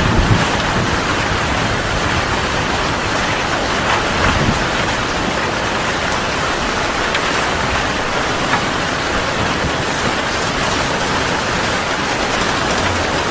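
Heavy rain falling steadily in an even hiss, with a low thunder rumble dying away in the first moment.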